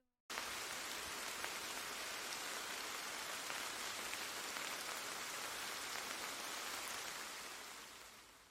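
Steady rain falling, a dense patter of drops, cutting in suddenly and fading out near the end.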